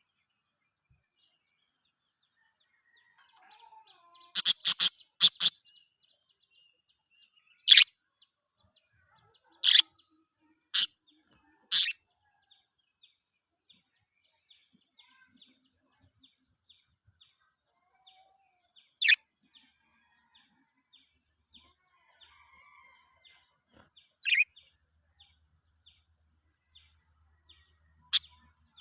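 Budgerigars chirping: short, sharp calls, with a quick run of four about four seconds in and single calls scattered through, over faint, continuous soft chatter.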